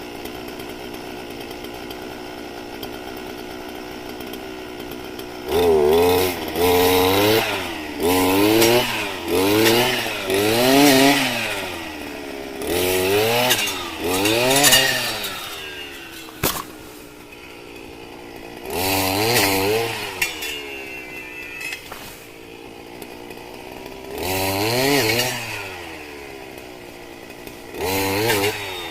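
Chainsaw engine idling steadily, then revved up and down over and over, about one rev a second, with pauses at idle between later single revs. A single sharp click comes about sixteen seconds in.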